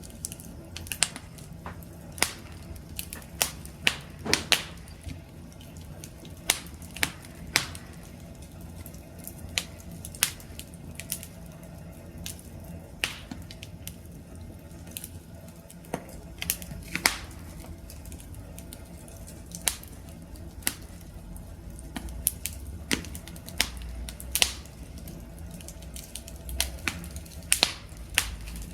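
Wood campfire crackling: irregular sharp pops and snaps, a few a second at uneven intervals, over a low steady rumble of the burning fire.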